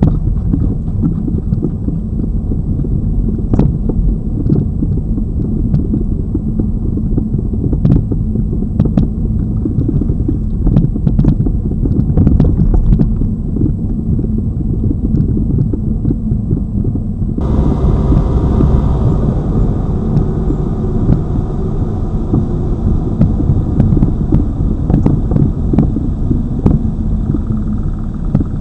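Suspension noise from a Lada Vesta Cross being driven over a rough road, heard at the right strut's top mount: a continuous rumble with repeated sharp knocks. The knocking comes from the original, unreplaced right shock absorber strut or its top mount, which the owner takes for a faulty strut assembly. About 17 seconds in, a hiss joins the rumble.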